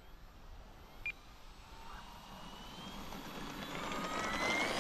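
Electric brushless motor and propeller of an E-Flite Air Tractor 1.5m RC plane throttling up for take-off: a whine that rises in pitch and grows louder over the last few seconds.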